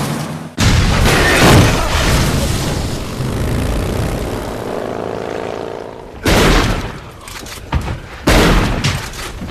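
Film sound effect of a van crashing into a cabin and exploding: a sudden loud crash and blast about half a second in that dies away over several seconds. Two more loud bangs follow near the end, with a few sharp cracks between them.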